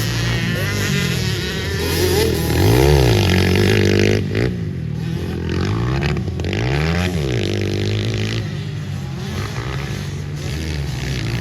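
Pit bike engines revving on a motocross track. Their pitch climbs and drops several times as the throttle opens and closes, and it is loudest about three seconds in.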